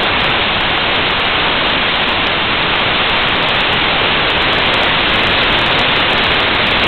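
Waterfall, falling water rushing in a steady, unbroken roar of noise.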